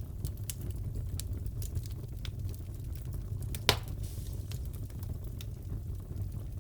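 Fireplace crackling: a steady low rumble of burning with scattered small crackles and one loud pop about halfway through.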